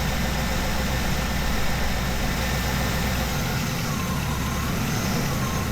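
Ambulance engine idling steadily, running through an engine-flush treatment in its oil just before being shut off for the oil change.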